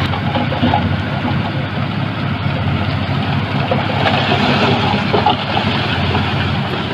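Heavy diesel engine of earthmoving machinery running steadily with a low, even throb, with a rattling clatter over it.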